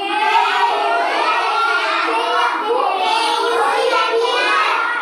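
A class of children reciting together in a sing-song chant, many voices overlapping without a break.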